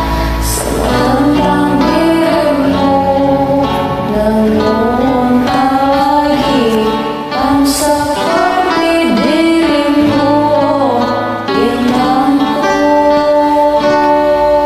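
A woman singing over a karaoke backing track.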